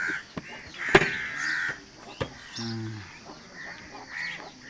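Crows cawing several times, with a few sharp clicks in between, the loudest about a second in.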